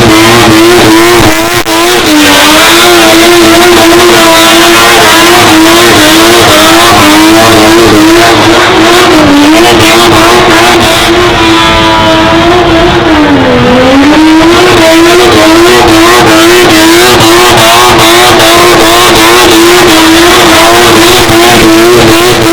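Supercharged rotary engine running at high revs, its pitch held high and nearly steady with a slight waver. It dips briefly three times, about two, nine and thirteen seconds in, the last dip the deepest, each time climbing straight back.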